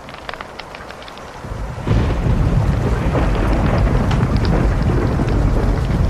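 Fire crackling with sharp pops, then about two seconds in a loud, deep rumble of thunder swells up and keeps rolling, with the crackling still going over it.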